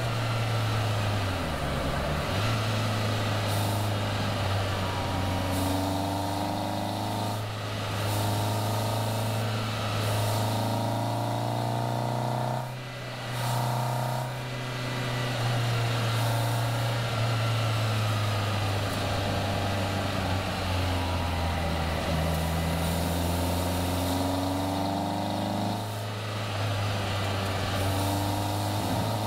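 Caterham Seven's engine pulling hard up a climb, its pitch rising and then dropping back at several gear changes, over steady rush of wind.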